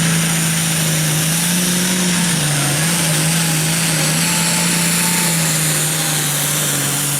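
Pulling tractor's turbocharged diesel engine running hard under load down the track, with a high whine over a steady low engine note that dips briefly about two and a half seconds in.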